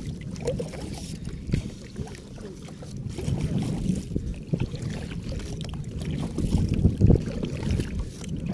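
Kayak paddling on open water, with wind rumbling on the microphone and a few sharp knocks, the strongest about seven seconds in.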